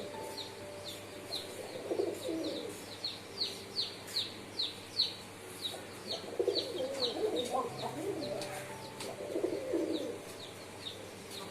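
Pigeons cooing in several low, warbling bouts, over a steady run of short, high, falling chirps repeating two or three times a second.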